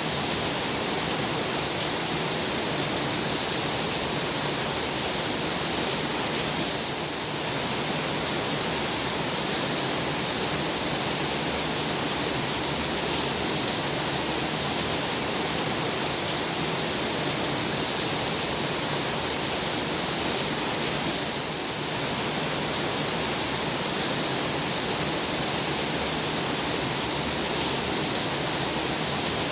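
Heavy rain pouring down in a steady dense hiss, easing for a moment twice.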